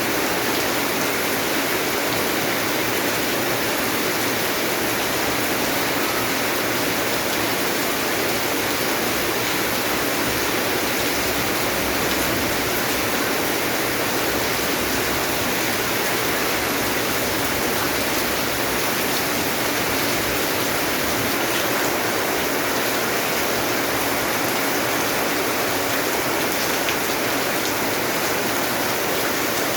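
Steady, even rainfall, a continuous hiss of rain with no breaks or changes.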